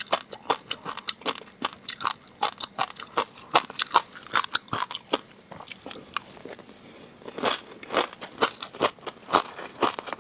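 Close-miked eating of seafood: chewing and crunching, many quick wet clicks and pops in rapid succession, easing off for a second or two a little past halfway before starting again.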